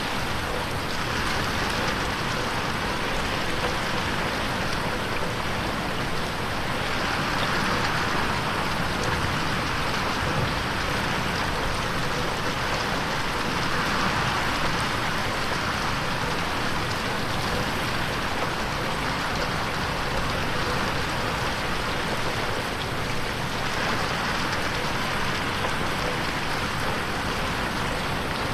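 Steady rain pattering on a window pane, a dense even hiss that swells and fades every six or seven seconds as it is panned around in an 8D headphone mix.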